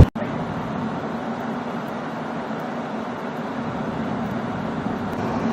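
Steady road-vehicle noise: an even rumble and hiss with a faint low steady hum, starting abruptly.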